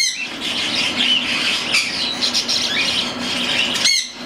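Cockatiel chicks near weaning squawking, with repeated short, harsh calls.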